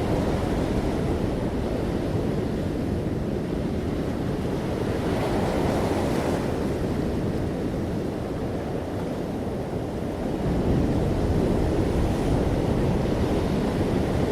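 Sea waves breaking gently on the shore, a continuous rush of surf. One wave washes in with a brighter hiss about five to six seconds in, and the surf swells again near eleven seconds.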